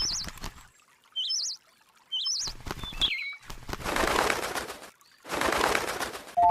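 A small bird giving several short, squiggly chirps, with scratchy rustling, then two longer bursts of wing flapping in the second half.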